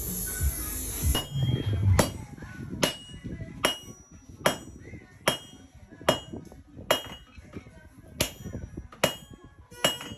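Blacksmith's hammer striking hot steel on an anvil while forging a pry bar, in a steady rhythm of about one blow every 0.8 s, each blow with a short metallic ring. A steady hissing noise cuts off about a second in, just as the hammering begins.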